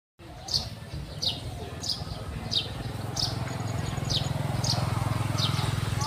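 A small bird repeating a short, falling chirp about every two-thirds of a second, over a steady low hum.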